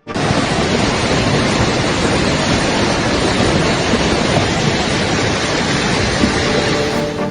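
Loud, steady rushing of floodwater, an even roar of flowing water that starts abruptly. Music comes in near the end.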